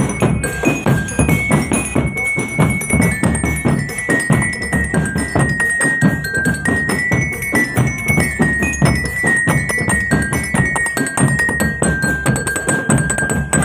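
Marching drum band playing: a dense, driving beat of snare and bass drums under a high melody that steps from note to note.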